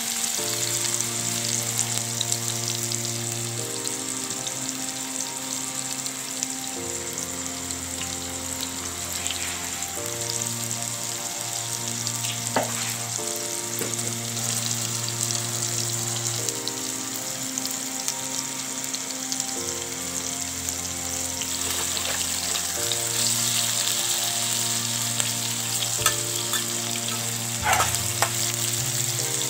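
Tofu cubes sizzling steadily as they fry in hot oil in a pan, with a couple of sharp clicks of a metal spatula against the pan. Soft background music with sustained chords plays underneath.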